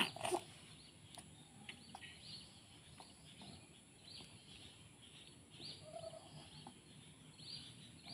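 Faint, repeated short high-pitched bird calls, scattered irregularly, with a few soft clicks.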